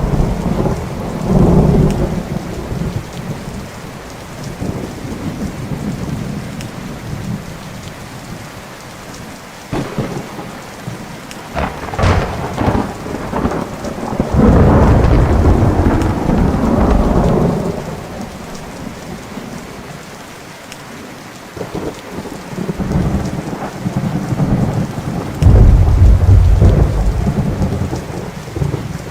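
Thunderstorm: steady rain with rolling thunder. A sharp crack about twelve seconds in is followed by a long, loud rumble, and another heavy rumble comes near the end.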